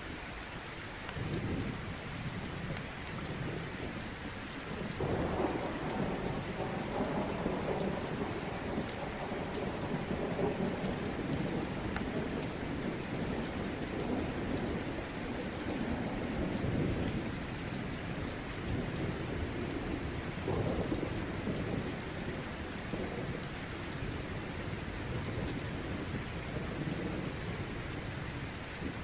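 Steady rain with rolling thunder. A short rumble comes about a second in, a long roll builds about five seconds in and fades over some twelve seconds, and another rumble rolls in around twenty seconds.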